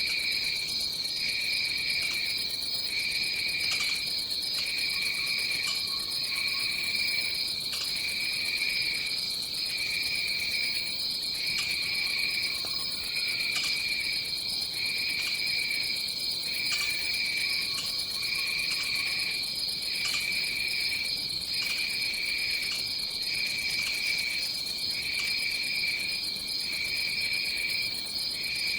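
Tropical forest insect chorus: a steady high-pitched drone, with a second, lower insect song pulsing on and off about every second and a half.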